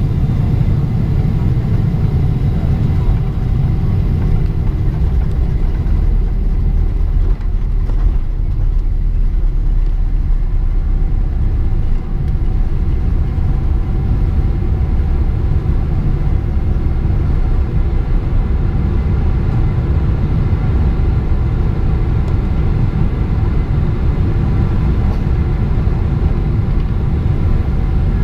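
Loud, steady low rumble heard inside the cabin of a Boeing 777-300ER, from its engines and airflow, with a faint hum of steady tones above it.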